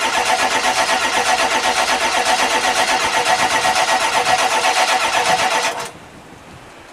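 2002 Ford F-250's 7.3-litre V8 diesel being cranked by the starter motor, a rhythmic pulsing churn that does not catch and stops about six seconds in. It is a cold start with the glow plugs not working, blamed on a faulty glow plug relay, and the battery is running down.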